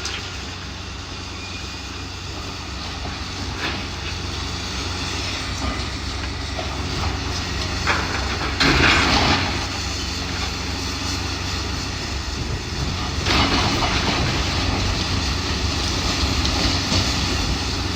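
Heavy demolition machinery running steadily with a low engine hum, and two louder crashes of building debris coming down, about nine seconds in and again near fourteen seconds.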